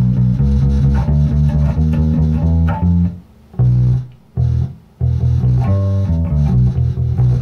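Bass guitar played solo: a plucked blues line in E in three short phrases separated by brief pauses. The line is the climb up the A string into the turnaround.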